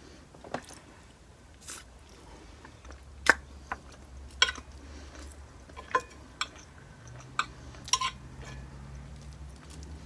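Cutlery clicking against a plate, about eight separate sharp taps, with soft chewing between them. A faint low hum comes in about three seconds in.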